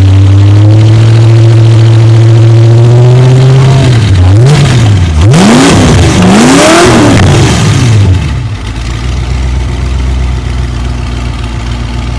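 V8 engine of a Cheetah chopper trike held at a raised speed, then blipped a few times and let drop back to a steady idle about eight seconds in. The ignition timing has just been set, which is called perfect.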